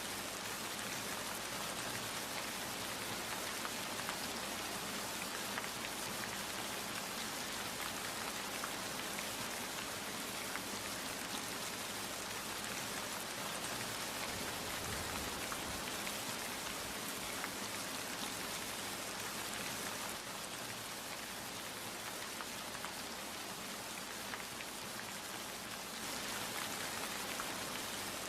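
Steady rain falling, an even hiss with many fine drop patters, easing slightly for a few seconds after about twenty seconds in.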